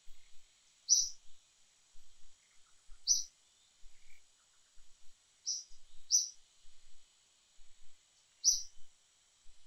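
A small bird gives short, sharp high chirps, about five of them spaced one to two seconds apart, over a faint steady high hum of insects.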